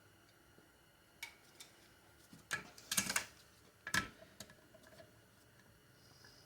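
Scattered small metal clicks and clinks of hand tools on a 4L60E transmission as the 2-4 servo is worked out. The loudest cluster comes a bit before the middle, followed by one more sharp clink about a second later.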